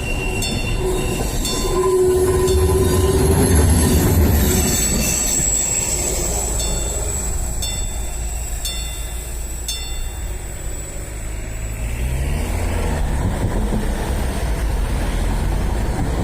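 Diesel railcar VT03 passing over a level crossing. The crossing bell strikes about once a second and stops about ten seconds in. A horn note is held for a few seconds near the start, and a high wheel squeal follows. Near the end the engine rumble rises in pitch as the railcar pulls away.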